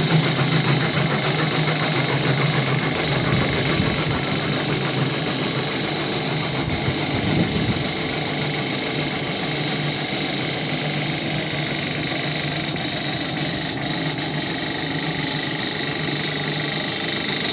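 A motor-driven machine running steadily, with a constant low hum and a thin high whine over a noisy rattle.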